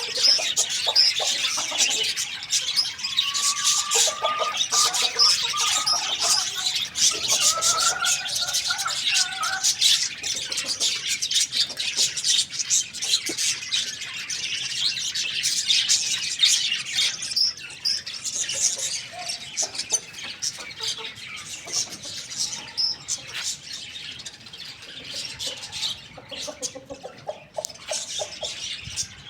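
Many small birds chirping together in a dense, continuous chatter, with a few longer sliding calls in the first third, growing sparser near the end.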